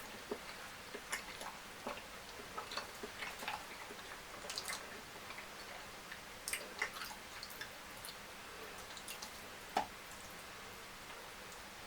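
Close-up eating sounds of a person chewing fried fish and fufu: irregular small wet clicks and smacks from the mouth, with a sharper click about ten seconds in.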